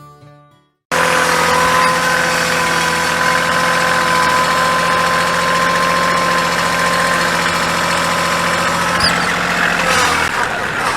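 Guitar music fades out, and after a moment of silence an engine runs steadily with a constant whine over its note, shifting slightly near the end; it is the machine being used to scoop up a sawdust pile.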